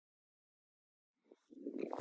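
Dead silence, then about a second and a half in a muffled rumbling noise with a few sharp clicks starts abruptly.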